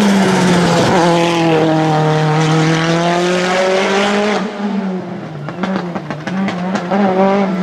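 Hillclimb racing car's engine at high revs, one strong steady note. About four and a half seconds in it falls away and grows quieter, with a run of sharp cracks.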